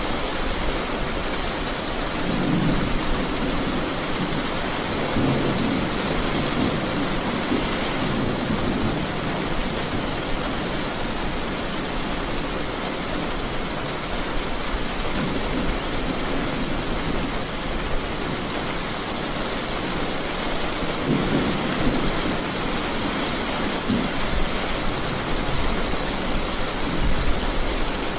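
Steady rain falling, with low thunder rumbling up and fading away a few times, around two, five and twenty-one seconds in.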